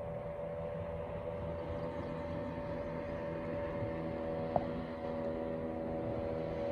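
Boat outboard motor running steadily, a continuous drone with a few steady tones, with a single brief click about two-thirds of the way through.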